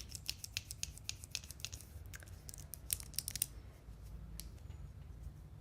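Pencil scratching on paper close to the microphone: a quick run of short, crisp strokes for about three and a half seconds, then only a few scattered ones.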